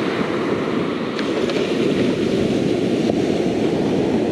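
Steady wash of ocean surf with wind rumbling on the microphone, and a few faint clicks.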